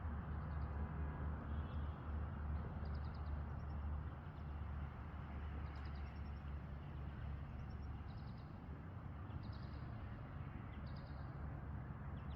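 A small songbird chirping over and over in short, high, quick trills every second or two, over a steady low rumble.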